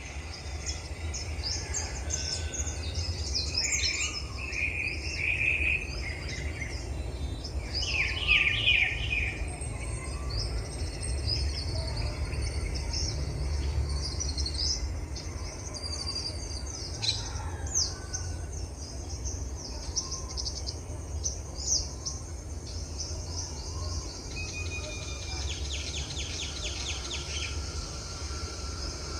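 Several wild songbirds singing and chirping at once, short high calls and trills overlapping, with a rapid repeated trill near the end. A steady low rumble runs underneath.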